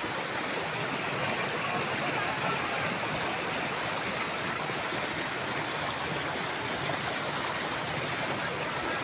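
Flash-flood water rushing steadily past, a continuous even torrent with no pauses.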